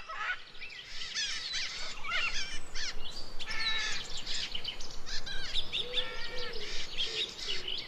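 Several birds calling together: many overlapping short whistles, chirps and sweeping notes in varied patterns, over a faint steady outdoor hiss.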